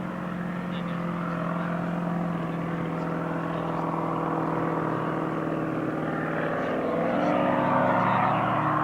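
Racing powerboat engines running with a steady, droning tone; about seven seconds in the pitch steps up and the sound grows louder.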